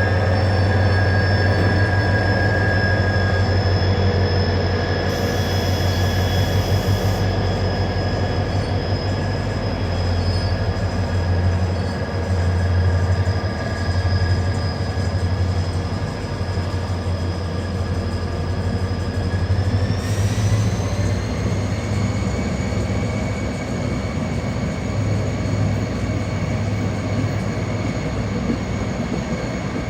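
Korail diesel locomotive No. 7403 pulling a passenger train out of a station, running with a steady low drone and a high whine. About twenty seconds in, the whine rises in pitch and settles higher as the engine works harder.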